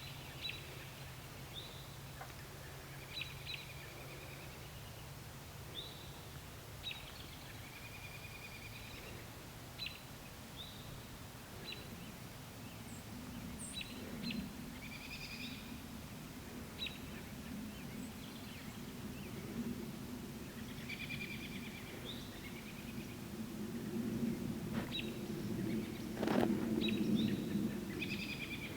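Outdoor night-or-evening ambience of many short high chirps and brief trills repeating irregularly. A low rumble swells over the last few seconds, with one loud sharp thump near the end.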